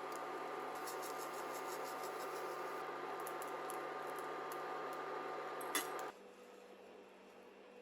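A kitchen appliance's motor or fan running with a steady hum. Near the end there is a sharp click and it shuts off, leaving quiet room tone.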